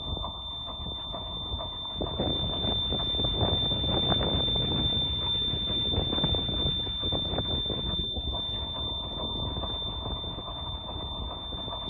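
A steady high-pitched whine holds unbroken over an uneven mechanical rumble and clatter from a boat engine being coaxed to start.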